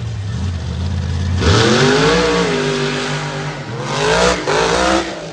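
Over Bored monster truck's engine running low, then revved hard about a second and a half in. The pitch climbs and wavers as the throttle is worked, and surges again near the end.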